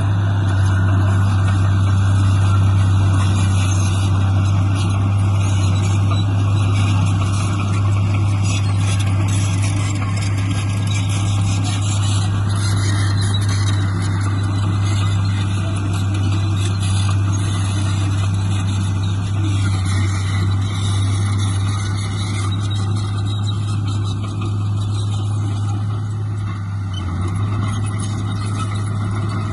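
Heavy diesel engine of earthmoving equipment running steadily, with a strong low hum.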